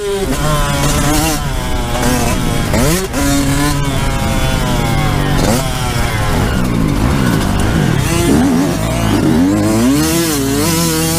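Yamaha YZ125 single-cylinder two-stroke engine under hard throttle on a motocross track, its pitch climbing and dropping back again and again with throttle changes and gear shifts.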